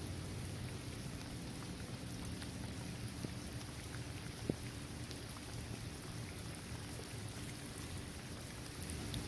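Steady rain falling on a paved basketball court, trees and grass: an even patter with scattered drips and a low rumble beneath. One sharper drop lands about four and a half seconds in.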